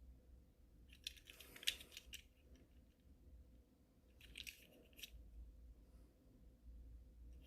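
Faint clicks and rustle of a small die-cast toy truck being handled, in two short spells about a second in and about four seconds in; otherwise near silence.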